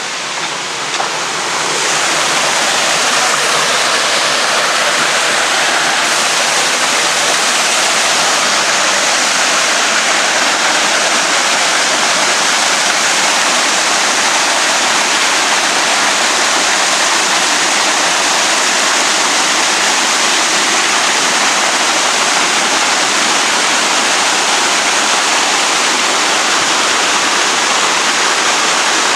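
Waterfall pouring: a loud, steady rush of falling water that swells slightly about two seconds in and then holds even.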